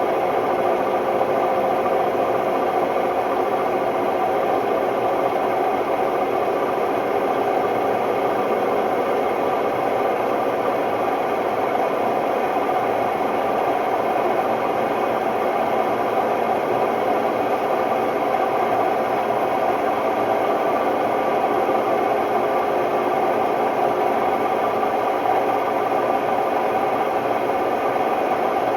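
Hotpoint Ultima WMD960 washing machine drum spinning, extremely noisy and steady, with a rattle: the sign of bad drum bearings.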